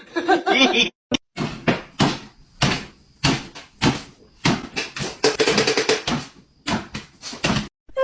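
A quick run of irregular knocks and bangs indoors, roughly two to three a second, with short gaps between them.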